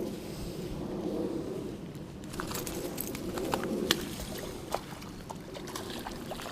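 A dove cooing: low hooting phrases repeated through the first half, with a few faint light clicks scattered later on.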